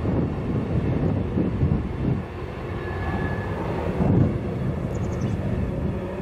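BNSF freight train's boxcars rolling past on the track, a steady rumble of wheels on rail, with a brief high squeal about three seconds in. Faint bird chirps high above it around the fifth second.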